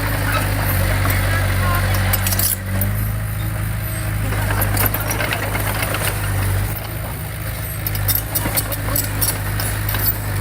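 Heavy diesel construction machinery running steadily at work, with repeated metallic clanking and clinking over the engine note.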